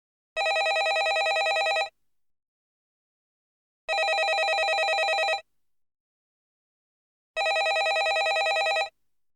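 Landline telephone ringing: three rings of about a second and a half each, evenly spaced about two seconds apart, each a rapid trill.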